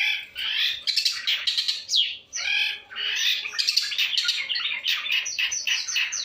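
Long-tailed shrike singing a fast, unbroken, chattering song of quick chirps, squawks and short warbled phrases that change from one note to the next: the varied, chatty song bird keepers call gacor.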